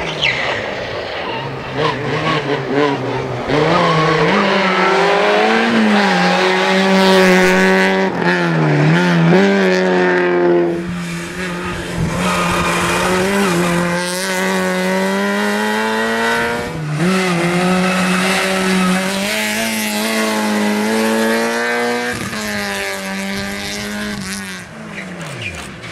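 Peugeot 106 1600 rally car's 1.6-litre four-cylinder engine revving hard through a cone slalom, its revs climbing and dropping again and again with the gear changes.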